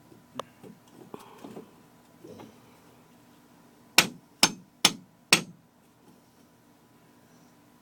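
Hammer tapping on a metal drain pipe fitting: four sharp, ringing taps in quick succession, about half a second apart, starting about four seconds in, after a few lighter knocks.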